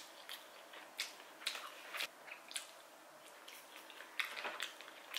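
A person chewing a mouthful of sushi: soft, wet mouth clicks and smacks at an uneven pace, sparser in the middle and picking up again near the end.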